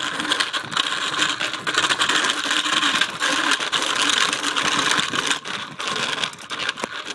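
Mini bike being ridden: a continuous clicking, rattling clatter from the bike's moving parts over a steady rushing noise.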